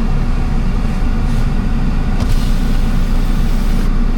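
Steady low rumble of a car's heater blower on max defrost with the engine idling, heard from inside the cabin.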